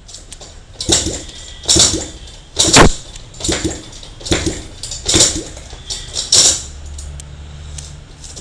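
Motorcycle engine, unused for four years, being turned over to start: a run of about seven loud bursts just under a second apart, without settling into a steady run.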